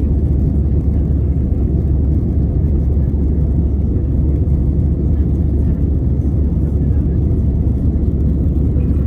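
Steady low rumble inside the cabin of an Airbus A320-214 in flight, the noise of its CFM56 engines and the air rushing past the fuselage.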